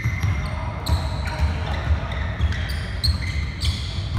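A basketball being dribbled on an indoor court, bouncing about twice a second, with short high squeaks over it.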